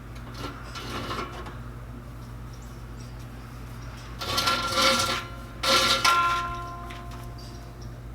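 Metal exhaust parts clanking and scraping against each other in two loud bursts, with a metallic ringing left hanging briefly after the second.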